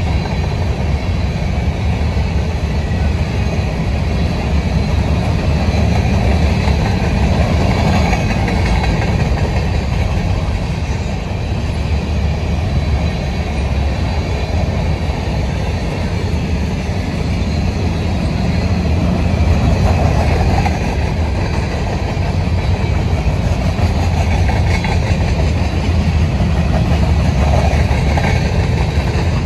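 Covered hopper cars of a freight grain train rolling past: a steady rumble of steel wheels on rail.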